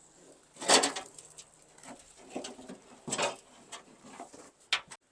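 Hand work on tailgate hardware: a loud knock or scrape about a second in, another about three seconds in, and a short sharp click near the end.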